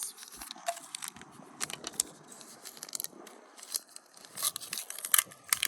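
A small plastic blind bag being torn open and crinkled by hand, a run of irregular short crackles and rustles.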